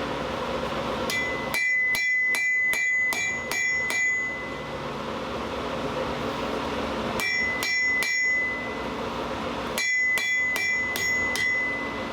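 Blacksmith's hand hammer striking hot steel on an anvil in three bursts of blows: about nine quick strikes, a pause, three strikes, then about six more. Each blow leaves a short bright ring from the anvil.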